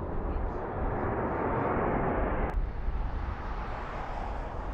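Military aircraft flying overhead: a rushing engine noise that swells, cuts off suddenly about two and a half seconds in, then gives way to a quieter rumble.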